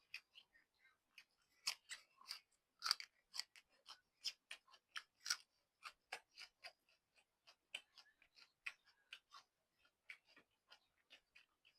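Close-up mouth sounds of a person chewing noodles: short, wet clicks and smacks, a few each second, with the loudest ones about two to three seconds in.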